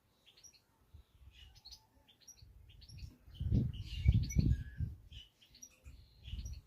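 Small birds chirping outdoors: short, high chirps repeated over and over. A low rumble, the loudest sound here, comes in from about three and a half seconds to five seconds in.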